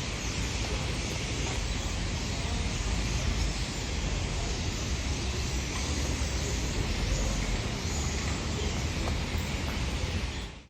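Car and street traffic noise, a steady rumble with a hiss of tyres and air, cutting off suddenly at the end.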